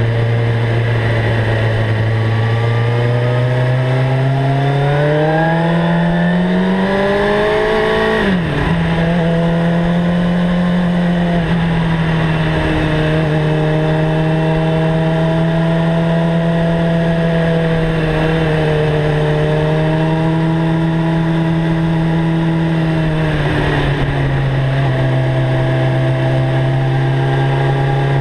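Suzuki GSX-R 750 inline-four engine through a Mivv GP exhaust, heard from on board while riding. The note rises steadily for about eight seconds, drops sharply for a moment, then holds a steady pitch, stepping down slightly near the end.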